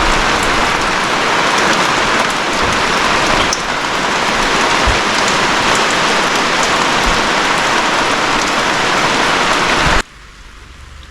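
Heavy rain falling, a loud steady hiss with scattered drop ticks, which cuts off suddenly near the end.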